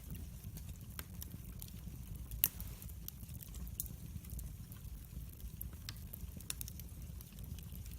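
Log fire burning in a fireplace: a steady low rumble of flames with irregular crackles and pops, the loudest a sharp snap about two and a half seconds in.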